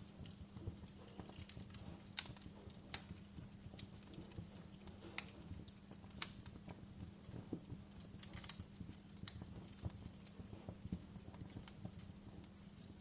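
Wood fire crackling in a fireplace: irregular sharp pops and snaps, a few louder ones scattered among smaller crackles, over a steady low rumble and a faint hum.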